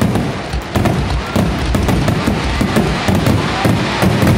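Aerial fireworks going off in a rapid barrage: shells launching and bursting one after another in a dense run of overlapping bangs and crackle over a steady low rumble.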